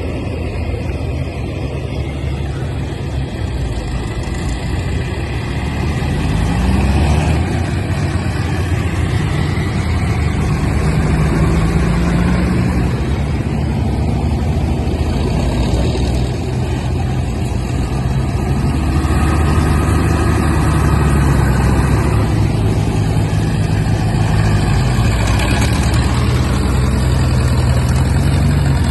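Vintage tractor engine running, its speed rising and falling several times.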